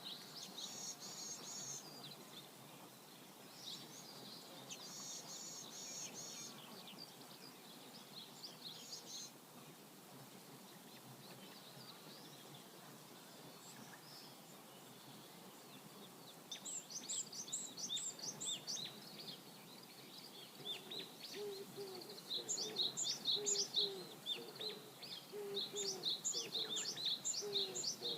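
Songbirds singing in bursts of quick high chirps and trills over a faint, steady river flow. From about twenty seconds in, a lower call of short repeated notes sounds beneath the song.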